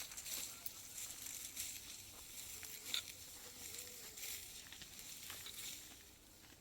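Irregular dry rustling and crackling, with a sharper crack about three seconds in.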